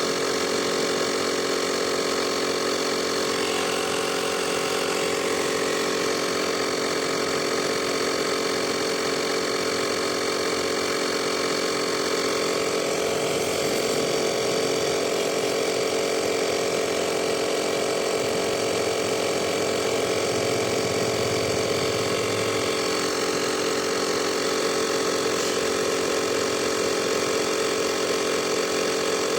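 Portable 12-volt tyre inflator's piston compressor running steadily while filling a car tyre, a constant buzzing hum.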